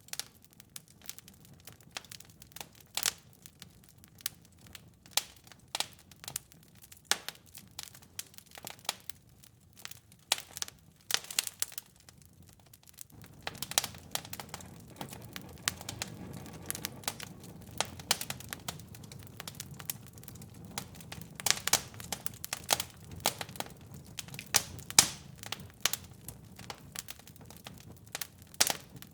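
Wood fire in a fireplace crackling, with irregular sharp pops and snaps over a low rush of flames. The low rush grows louder about halfway through.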